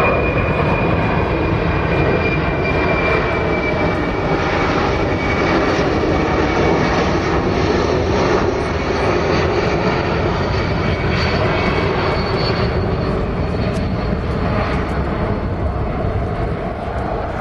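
Boeing C-17 Globemaster III airlifter flying past with its four turbofan engines running: a loud, steady engine noise with a faint whine that slowly falls in pitch over the first few seconds.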